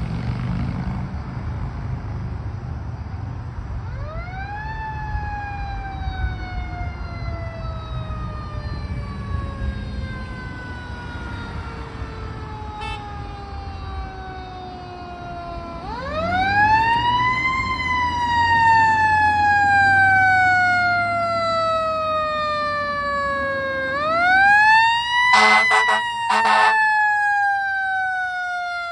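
Fire truck siren winding up three times, each time rising quickly and then falling slowly as it coasts down, over the low rumble of the truck's engine. Near the end come two short air-horn blasts.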